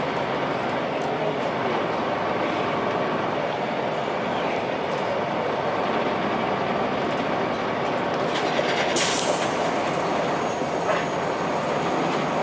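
Steady ride noise inside a 2002 Blue Bird 40 ft transit bus on the move: the Cummins ISC diesel engine running with road noise and light rattles, and a short hiss about nine seconds in.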